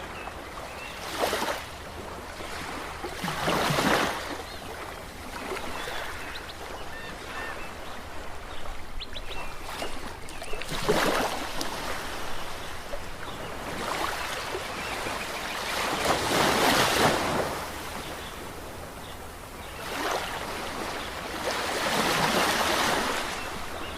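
Ocean waves surging and washing back, the rushing swelling and fading in irregular surges, with bigger ones about 4, 11, 17 and 23 seconds in.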